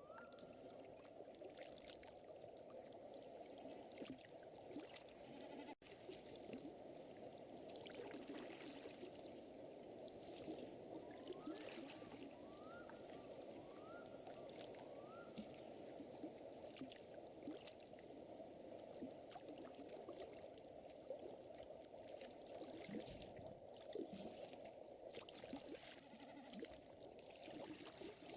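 Faint, steady lapping and trickling of lake water with the sharp pops of a crackling wood fire throughout, and a few short rising animal calls in the middle.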